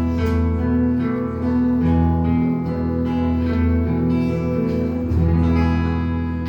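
Acoustic guitar playing the instrumental intro of a folk-pop song, with sustained chords over a steady bass line and no singing.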